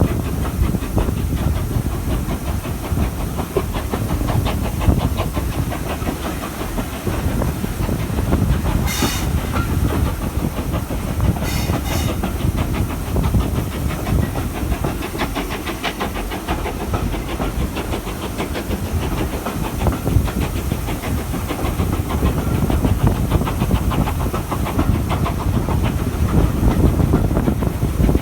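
Steam-hauled train running along the line: a steady rumble and rattling clatter of wheels on rail, with hiss. Two brief sharp high-pitched bursts come in the middle.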